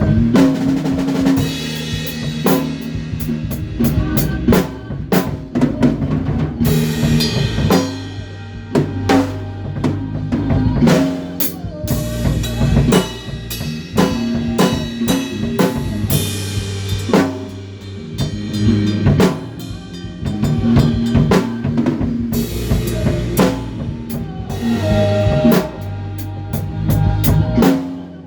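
A band rehearsing a song: a drum kit keeps up dense kick, snare and cymbal hits under held low bass notes and other pitched instruments. There is a brief drop near the end.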